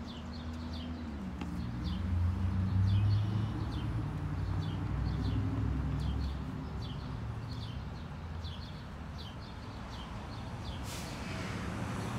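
Small birds chirping over and over, short calls a few times a second, over a low rumble that swells and fades like a passing vehicle. Near the end a short scrape, fitting a shovel digging into soil in a plastic tub.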